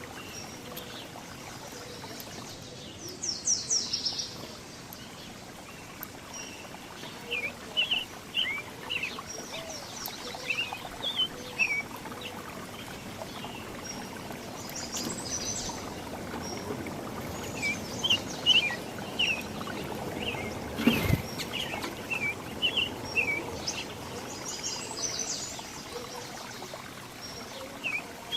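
Several small songbirds chirping and calling in short, quick notes, some in quick clusters, over a steady background hiss. There is one sharp knock about two-thirds of the way through.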